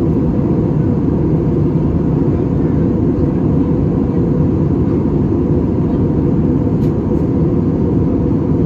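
Airbus A320-200 cabin noise from its running jet engines and the airflow: a loud, steady low rumble with a faint steady whine above it.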